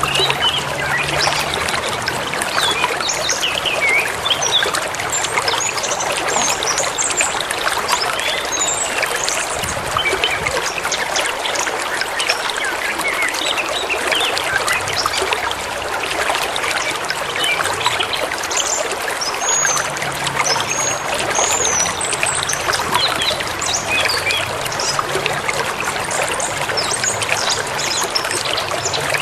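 A forest river or stream flowing steadily over stones, with birds chirping and whistling short notes over it.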